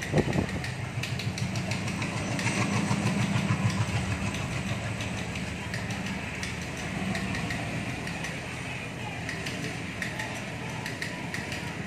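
WDM3A diesel locomotive hauling a freight train of flat wagons past: a steady low engine drone, strongest in the first few seconds and then easing off, with the clicking and rattling of the wagons rolling over the track.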